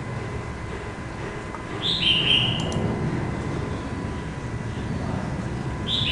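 A bird gives a short two-note whistled call twice, about four seconds apart: a brief higher note, then a slightly lower note held for about half a second. Under it runs a steady low rumble with a faint thin whine.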